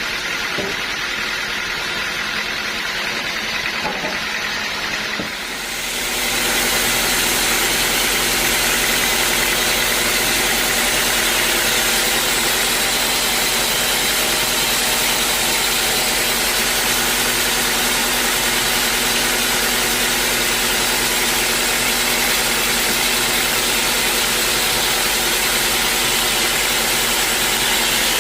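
A sawmill's engine running steadily; about six seconds in the sound grows louder and a steady hiss of the saw cutting through a teak log joins it and holds.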